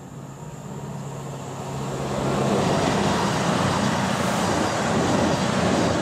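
A passenger train passing through the station without stopping. Its running noise and engine drone grow louder over the first two seconds, then hold steady and loud.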